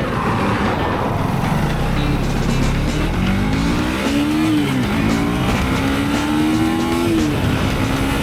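Motorcycle engine accelerating hard. The revs climb and fall back at two upshifts, over a rushing wind noise.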